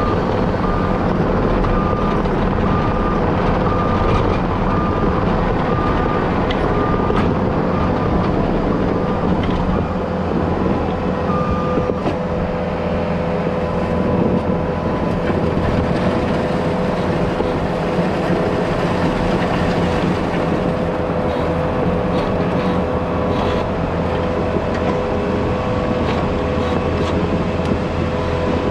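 Heavy equipment's diesel engine running steadily, with its backup alarm beeping about one and a half times a second for the first eight seconds or so, then once more near the middle.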